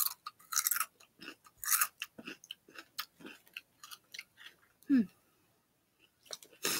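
A person chewing crunchy multigrain Sun Chips close to the microphone: irregular sharp crunches, with a short falling hum about five seconds in.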